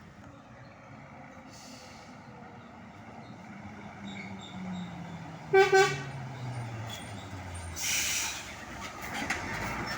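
Truck passing with its engine note falling steadily, and two short horn toots in quick succession about halfway through, the loudest sound. A short burst of hiss follows near the end.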